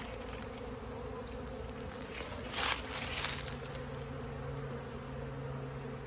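Honeybees buzzing in a steady hum around the entrance of a hive that is being robbed. A brief rustle cuts in about halfway through.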